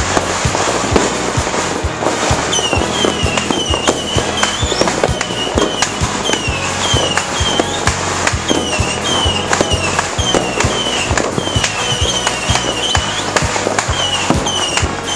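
Fireworks and firecrackers going off in a dense, continuous string of bangs and crackles. From about two and a half seconds in, a short high chirping tone repeats over and over.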